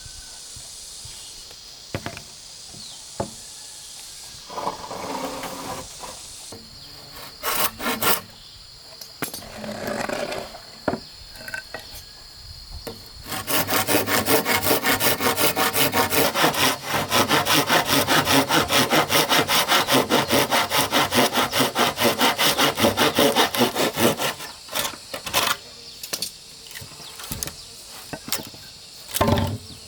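Hand saw cutting through wood in quick, even strokes for about ten seconds in the middle, with scattered knocks and taps of wood before and after.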